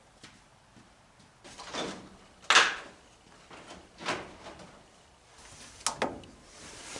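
A few short knocks and scrapes, the loudest about two and a half seconds in.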